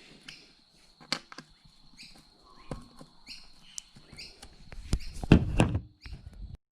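Scattered clicks and knocks of plastic and metal parts and tools being handled while a large-scale RC monster truck is taken apart, with a louder clatter of knocks about five seconds in. Birds chirp faintly in the background.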